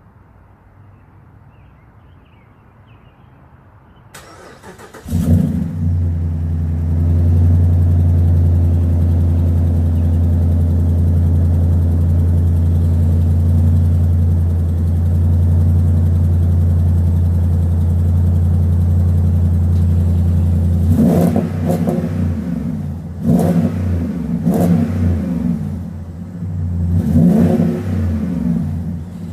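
2009 Dodge Ram 1500's 5.7 Hemi V8 through a Magnaflow cat-back exhaust, cold-started after sitting two weeks: the starter cranks about four seconds in and the engine catches within a second. It settles into a loud, steady fast idle, then about five sharp rev blips follow near the end.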